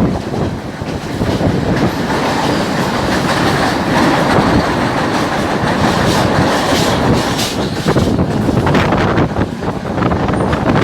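A train running along the track with a steady rumble of wheels on rail and short clacks as the wheels pass over the rail joints.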